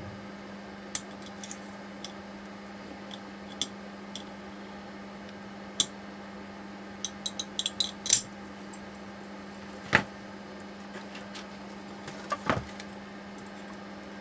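Small metal parts and tools of a steering rack clinking and tapping as they are handled, in irregular light clicks with a sharper cluster around the middle and a couple of louder knocks later. A steady low hum runs underneath.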